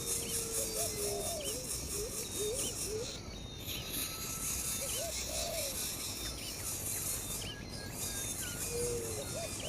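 Insect chorus, a high pulsing drone like cicadas or crickets, with many short hooked calls low in pitch repeating through it.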